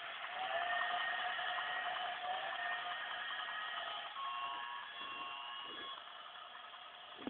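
Battery-powered toy Christmas-tree train running, giving several steady electronic tones that shift in pitch every second or two. The tones fade somewhat near the end, which closes with a short click.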